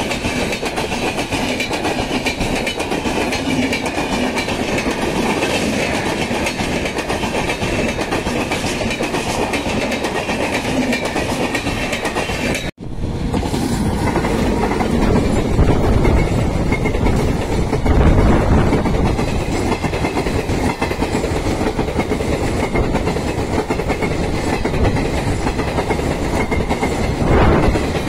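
Indian Railways trains running on the track, with wheels clattering over the rails. The sound breaks off sharply about 13 seconds in, and a second stretch follows with more low rumble and a few louder swells.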